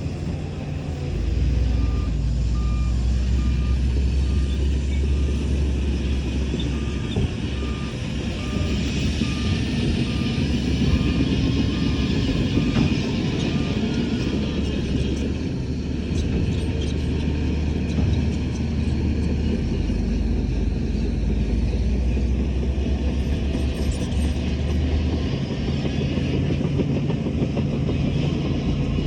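Heavy diesel earthmoving machinery running steadily, with a reversing alarm beeping at one pitch, about one and a half beeps a second, that starts about two seconds in and stops about halfway through.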